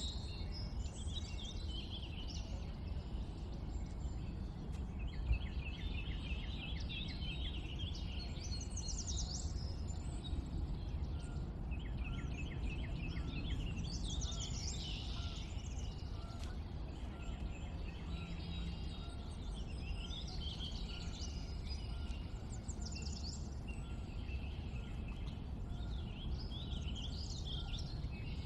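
Several small birds chirping and trilling, calls overlapping throughout, over a steady low background rumble.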